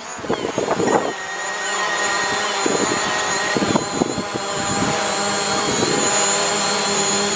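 DJI Mavic Pro quadcopter's propellers and motors running in a steady, many-toned whine as it hovers, coming in about a second in.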